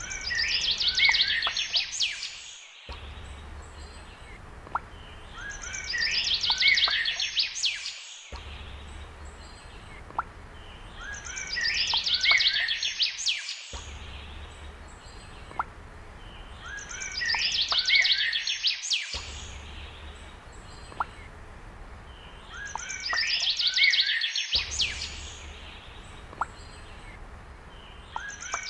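Looped birdsong ringtone: the same roughly two-second burst of rapid, high trilled chirps repeats about every five and a half seconds, with fainter single chirps between and a brief cut at each restart of the loop.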